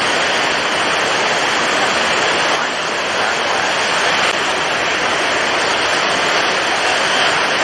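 Storm at sea: strong wind and heavy waves blending into a loud, steady rushing noise with no distinct crashes or gusts standing out.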